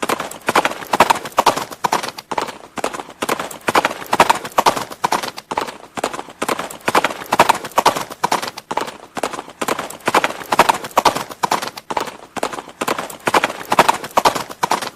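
Horse's hooves clip-clopping on hard ground in a steady, even rhythm of sharp knocks.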